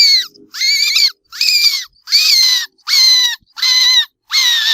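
Rat squeaking: a run of short, high-pitched squeaks, about two a second, each dipping slightly in pitch at its end.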